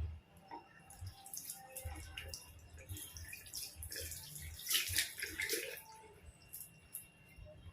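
Water splashing and dripping as a puppy is washed, in short irregular splashes that are loudest about five seconds in.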